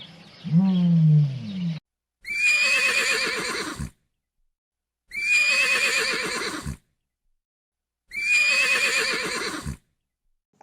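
Horse whinnying three times, the same high, wavering call repeated at even spacing, each lasting about a second and a half. A lower animal call ends just before the first whinny.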